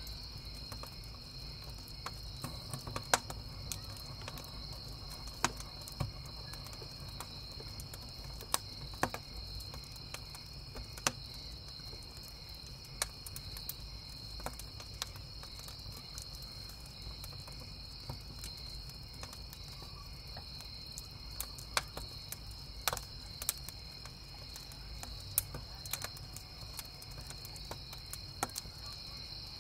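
Crickets chirping in a steady high-pitched chorus over a crackling wood campfire, with sharp pops from the burning firewood scattered irregularly throughout.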